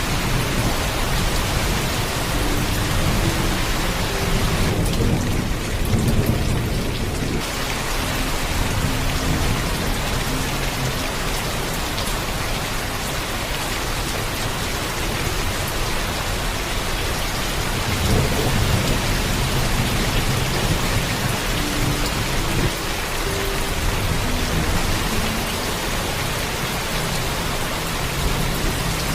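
Heavy rain falling steadily, with thunder rumbling low beneath it; the thunder swells louder about five seconds in.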